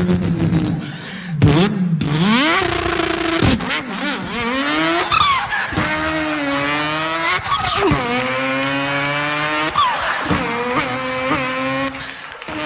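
A person imitating racing car engines with his voice: the engine note climbs and then drops at each gear change, over and over, with a screech like tyre squeal.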